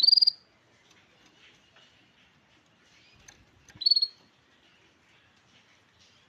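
Canary giving two short, loud, high calls, one at the start and another about four seconds in, with faint chirps in between.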